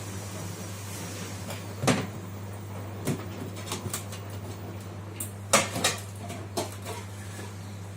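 LG direct-drive front-load washing machine running, a steady low hum with irregular knocks and clunks, the loudest about two-thirds of the way in.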